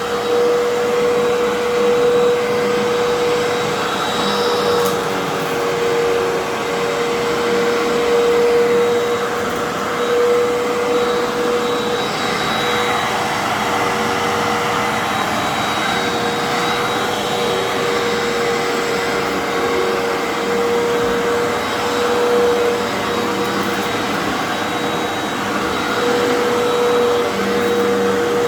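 Fantom Fury upright vacuum cleaner running over carpet: a steady motor drone with a strong, constant hum tone.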